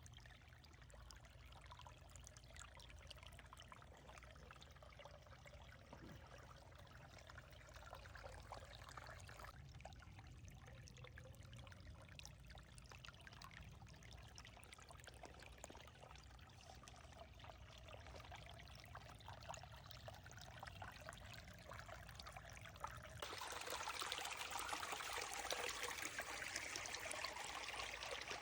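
Creek water trickling and flowing, faint and steady, becoming louder and brighter for the last few seconds.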